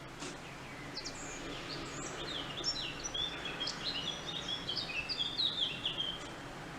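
A small songbird singing a long, fast twittering song of short high chirps and quick falling notes that stops about six seconds in, over a steady outdoor background hum.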